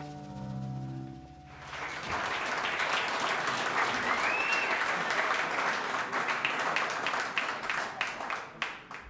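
A held final chord of the band's music dies away about a second and a half in. Then an audience claps and cheers, with a brief rising-and-falling whistle among the clapping. The applause thins out near the end.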